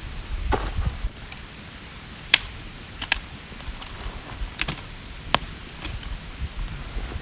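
Dry small wood giving sharp, irregular cracks and snaps, about six spread unevenly over several seconds, the loudest a little over two seconds in, with a low rumble underneath.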